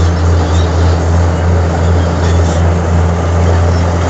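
Heavy diesel engine running steadily at constant speed, a deep even drone.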